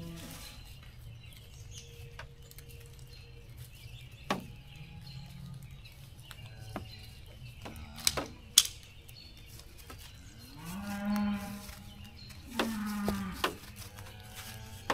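Cattle mooing: two low moos in the second half, one a little under a second long and one shorter. Earlier come a few sharp clicks, the loudest about eight and a half seconds in, over a steady low rumble.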